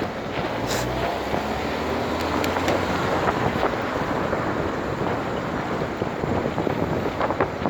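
Wind buffeting the microphone while riding a bicycle, over a steady rush of road and traffic noise.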